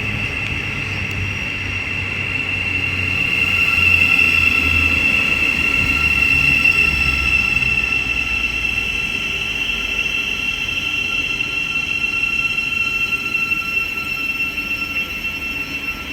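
Class 700 electric multiple unit pulling into the platform and slowing, with a steady high-pitched whine over a low rumble.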